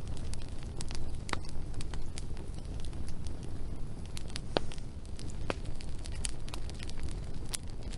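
Wood fire burning steadily, with irregular sharp crackles and pops from the burning logs over a low, continuous rushing noise.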